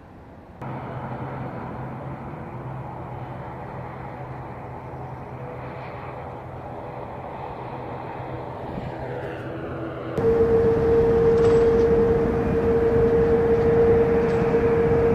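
Steady jet aircraft noise: an even rush with a low hum and a higher steady tone. The sound jumps abruptly louder about a second in and again about two-thirds through, where the higher tone becomes much stronger.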